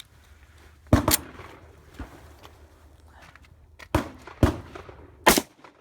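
Tokarev TT pistol in 7.62×25 mm firing a string of sharp single shots spread over a few seconds, the first about a second in and the loudest near the end.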